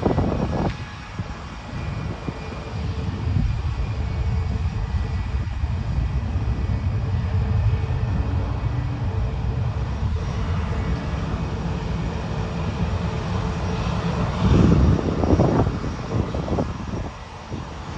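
Jet airliner engines running with a steady low rumble and faint steady whine tones, swelling louder for a moment about three-quarters of the way through.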